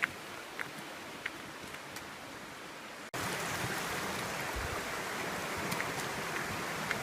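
Steady rushing of running water with a few faint ticks; it breaks off for an instant about three seconds in and comes back clearly louder.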